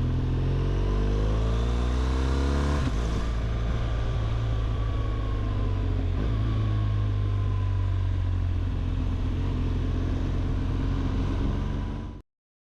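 BMW R 1200 GS boxer-twin engine accelerating. Its pitch climbs for about three seconds, drops suddenly at a gear change, then runs steady at cruise with a faint whine that slowly falls. The sound cuts off abruptly near the end.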